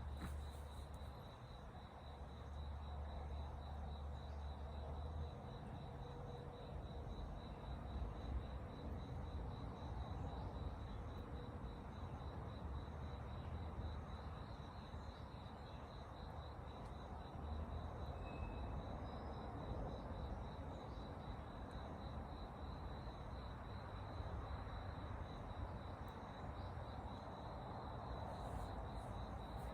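An insect, cricket-like, trilling steadily in a high, evenly pulsing tone, over a low steady rumble.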